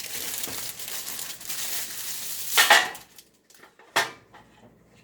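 Plastic wrapping rustling and crinkling as frozen French bread pizzas are unwrapped and handled, with a louder rustle about two and a half seconds in, then one sharp knock near four seconds as something is set down on the baking sheet.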